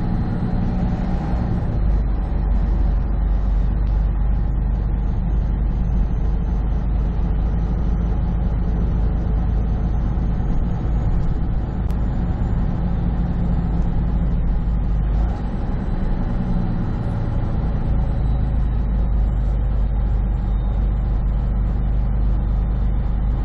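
Semi truck's diesel engine and road noise heard from inside the cab while driving: a steady low drone that shifts briefly about two seconds in and again about fifteen seconds in.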